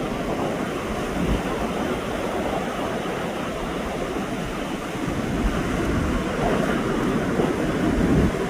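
Pacific Ocean surf washing in steadily, swelling louder near the end, with wind buffeting the microphone in low thuds.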